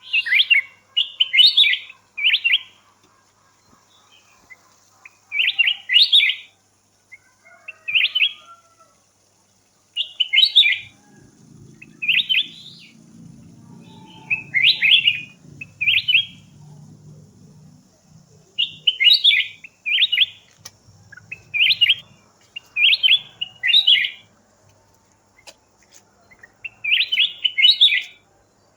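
A wild bird singing in short phrases of quick, high chirps, repeated every one to three seconds.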